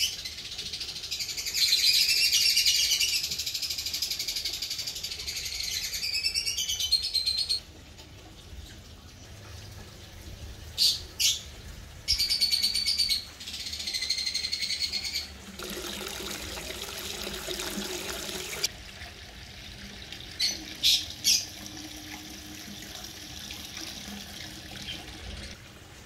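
Small birds chirping and chattering: several seconds of dense, fast chatter at the start, then short loud chirps at intervals. A little past halfway, about three seconds of even rushing noise.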